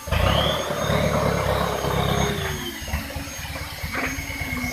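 Toyota 15B-T four-cylinder turbo-diesel in an FJ40 Land Cruiser revving as the truck moves off. A high turbo whistle rises, holds, and falls away about two and a half seconds in.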